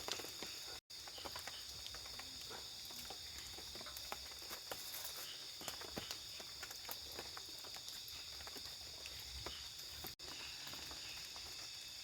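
A steady, high-pitched chorus of crickets and other night insects, with scattered light ticks and clicks. The sound cuts out completely for an instant twice, about a second in and near the end.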